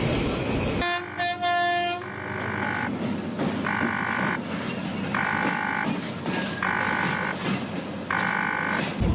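A horn sounds a longer blast, then five short, identical blasts at an even pace of about one every second and a half. Before it, a steady rumbling noise cuts off abruptly.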